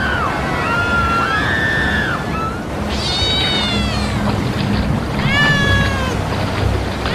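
A cat meowing several times: short rising-and-falling calls in the first two seconds, then two longer high meows that fall in pitch, about three seconds in and again past five seconds.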